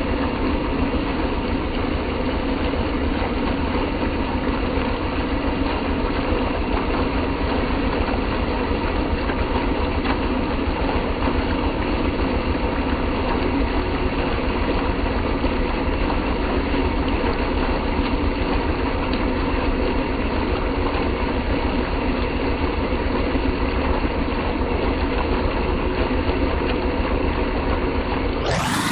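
An engine running steadily at idle, an unbroken low rumble with a constant hum.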